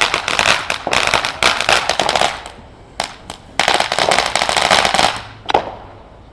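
Consumer fireworks crackling: two long runs of rapid pops, with a few single pops in the gap between them and another single pop near the end.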